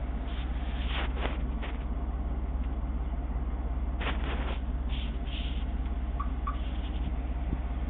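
Ford SVT Lightning pickup's V8 engine idling steadily, a low even rumble, with a few brief hissy noises on top about one and four seconds in.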